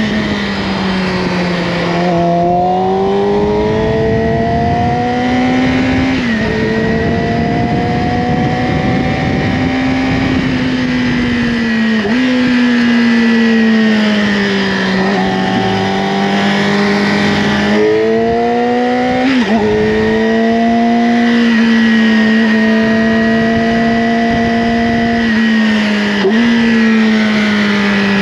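Yamaha R6's inline-four engine with an Akrapovic slip-on exhaust, running at moderate revs under riding load, its pitch slowly rising and falling with the throttle. The note drops suddenly at gear changes about six, twelve, eighteen and twenty-six seconds in, over steady wind noise.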